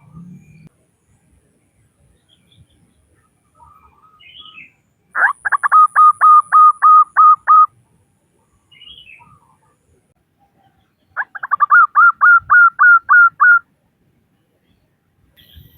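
Female zebra dove (perkutut) calling: two rapid runs of about ten short, clipped notes each, several seconds apart.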